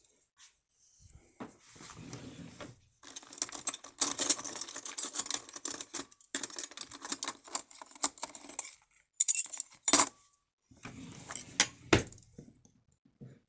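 Rattling and clicking of food packaging and tableware being handled: a dense run of small clicks and rattles, then a few sharp separate clicks near the end.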